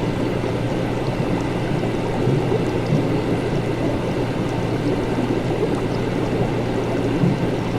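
Laboratory ambience: liquid bubbling and gurgling without a break over a steady low hum.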